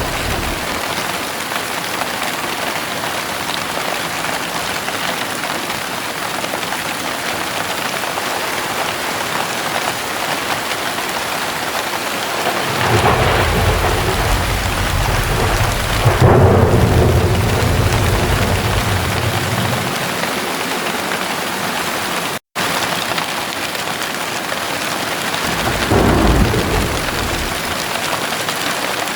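Heavy rain falling steadily. A long, low rolling rumble of thunder builds about halfway through and fades away, and a shorter rumble of thunder comes near the end; the audio drops out for a split second between them.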